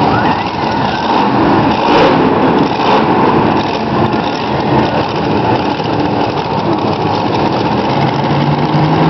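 Monster truck engine running loudly, a dense rattling drone with occasional sharp cracks.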